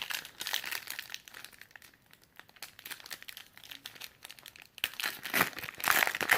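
Crinkling of a plastic-foil trading-card pack wrapper and trading cards being handled, a run of dense small rustles and clicks that grows louder about five seconds in.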